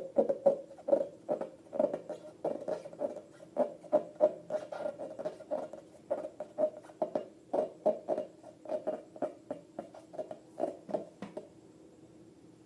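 Rapid series of squishy squeaks from hands working slime, about three a second, stopping near the end.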